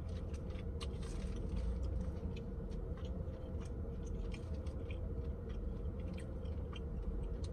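Close-up mouth sounds of a person chewing boiled crawfish, with irregular small clicks and crackles from handling the food in a plastic bag. A steady low hum sits underneath.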